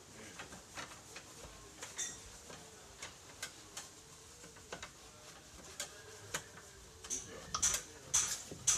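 Light scattered clicks and handling noises while surfaces are wiped down with an alcohol-soaked cloth. About seven seconds in, a run of quick, hissy wiping strokes comes in at about two a second.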